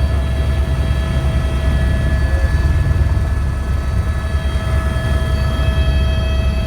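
Helicopter in flight: a loud, steady drone of engine and rotor with a steady high whine over it.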